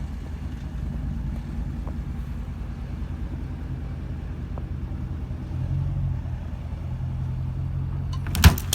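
Car engine running steadily, its revs rising a little about five and a half seconds in, with two sharp knocks near the end.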